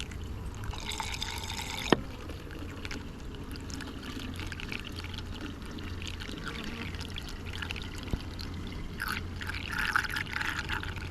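Sugar syrup being poured from a jug into a hive feeder, a steady trickling pour, with one sharp click about two seconds in.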